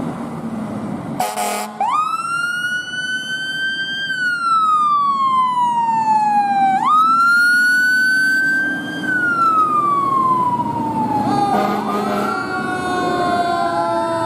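Emergency vehicle siren wailing, its pitch rising and then falling slowly, twice, after a short loud blast about a second in. Near the end a second siren joins, with several tones sweeping over each other.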